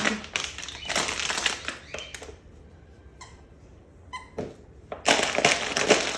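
A Beauceron chewing and mauling a crinkly plush dog toy, with loud crackling and crinkling. Midway it goes quieter, with a couple of faint high squeaks, and then the crinkling comes back loud about five seconds in.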